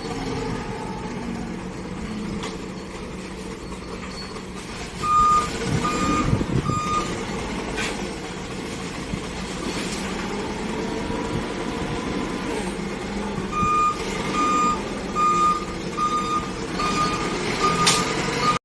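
Forklift reversing alarm beeping, three beeps about five seconds in and a longer run of about seven near the end, over a steady engine hum.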